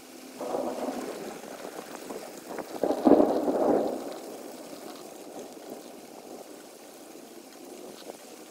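A roll of thunder over steady rain. It builds about half a second in, peaks around three seconds and dies away by about four seconds.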